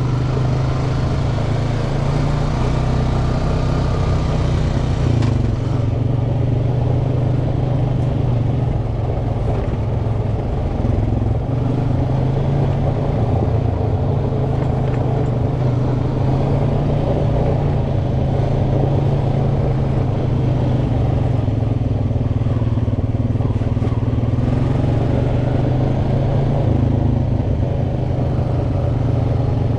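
ATV engine running steadily as it is ridden along a dirt trail, its pitch shifting slightly up and down with the throttle.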